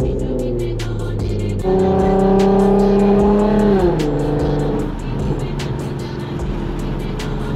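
Infiniti Q50's V6 running through an aftermarket Ark exhaust with resonated test pipes, its pitch holding steady and then dropping about four seconds in as the revs fall. A music beat with steady hi-hat ticks plays over it.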